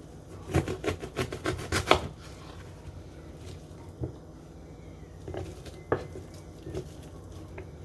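Knife chopping onion on a cutting board: a quick run of about a dozen strokes, then a few single knocks.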